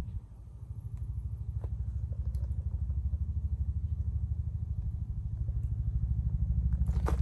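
A low, pulsing, engine-like rumble, growing somewhat louder over the first few seconds and then holding steady, with a few faint clicks over it.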